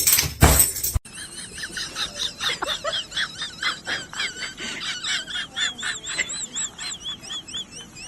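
A few sharp knocks in the first second, then a rapid run of high, wavering chirps from a small animal, several a second, going on to near the end.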